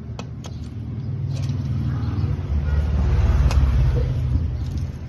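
A motor vehicle's engine rumble that builds up to a peak about three and a half seconds in and then eases off, with a few sharp metallic clicks over it.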